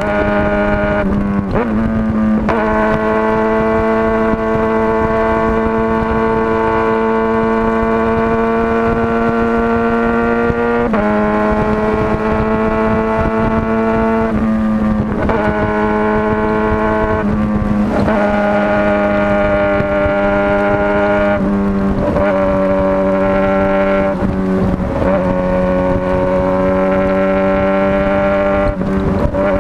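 Motorcycle engine running under way, held at a steady pitch for long stretches, with the pitch shifting briefly several times: near the start, around a third of the way in, about halfway, and again near the end, as the revs change.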